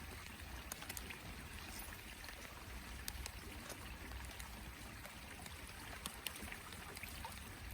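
Light rain falling on and around a small boat on the water: a steady hiss scattered with sharp ticks of drops, over a low wind rumble on the microphone.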